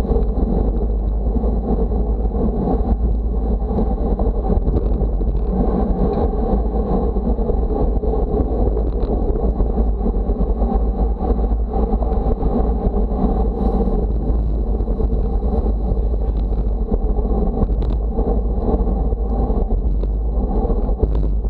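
Steady wind buffeting the microphone while moving, a loud unbroken low rumble with a haze of road noise above it.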